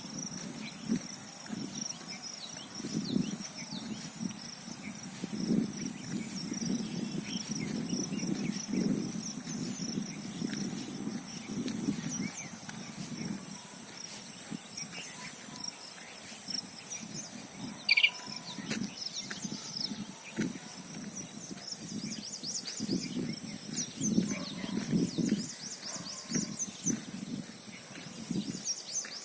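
Outdoor ambience: a steady high-pitched insect drone with small birds chirping throughout, over an uneven low rumble. A single brief, sharp call stands out about eighteen seconds in.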